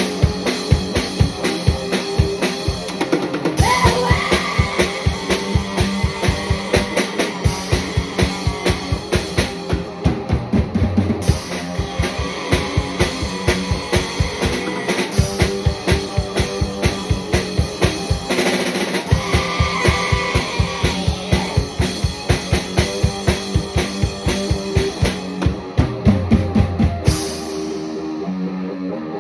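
Guitar and drum kit playing a hard, fast rock song, with rapid bass-drum strokes under the guitar. About two seconds before the end the drums stop and the guitar carries on alone.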